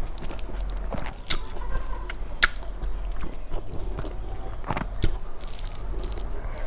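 Close-up mouth sounds of eating: soft chewing broken by scattered sharp wet clicks and smacks.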